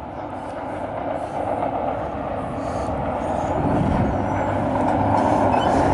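Approaching CSX loaded double-stack freight train: the diesel locomotives and rolling wheels make a steady rumble that grows gradually louder.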